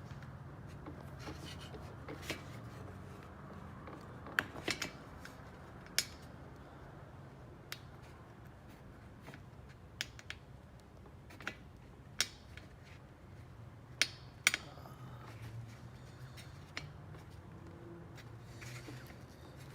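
Scattered sharp clicks and knocks of plastic and metal parts being handled as a metal front bumper support is fitted to a plastic bumper cover, over a steady low hum.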